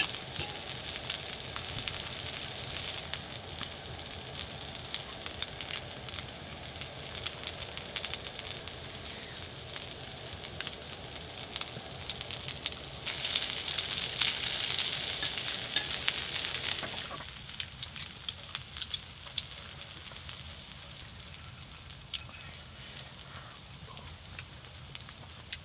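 Pieces of eel sizzling and crackling in oil on a hot griddle pan. The sizzle swells louder for a few seconds just past halfway, then settles back down.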